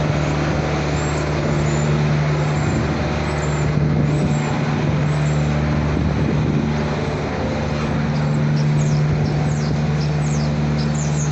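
Food service delivery truck's engine idling steadily with a low, even hum.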